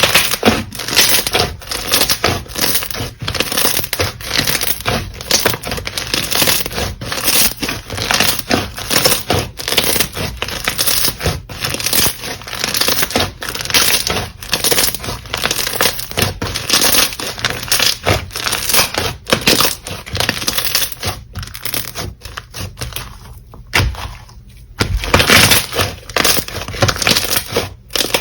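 Slime being squeezed and pressed by hand, giving a dense, irregular run of quick crackles and pops. It goes quieter for a moment about three-quarters of the way through, then comes back loud.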